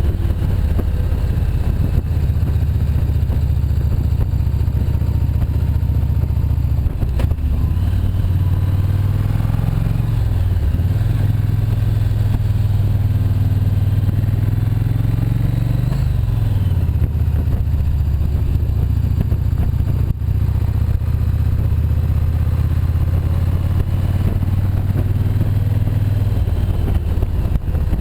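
Motorcycle engine running under way on a winding mountain climb, its pitch dropping and coming back up about ten seconds in and again around sixteen seconds as the revs change.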